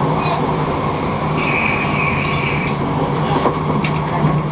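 Passenger train running, heard from inside the carriage: a steady rumble with a low hum, a high squeal for about a second, a second and a half in, and a single knock near the end.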